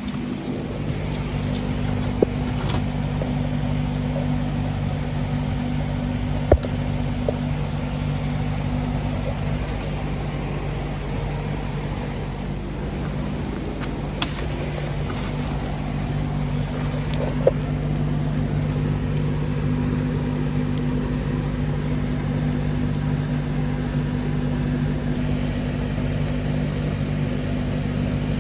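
2003 Ford F350 pickup's engine idling steadily, a smooth even hum with a few light clicks.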